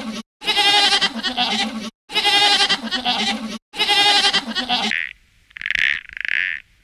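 A bleating farm animal calls three times, each a wavering bleat of about a second and a half, the same call repeated with brief dead-silent gaps between. About five seconds in the bleats stop and short croaking calls begin.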